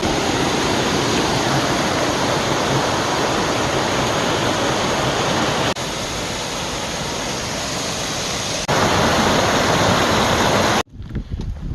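Steady, loud rush of whitewater from a creek or waterfall running high after heavy rain, in several clips cut back to back, the third louder than the others. Near the end it cuts suddenly to a much quieter outdoor background.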